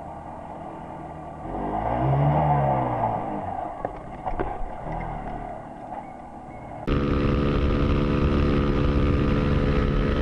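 Motorcycle riding sounds: about two seconds in, an engine swells with a pitch that rises and then falls, then fades to quieter road noise. About seven seconds in, a sudden cut brings a motorcycle engine running loud and steady at an even pitch.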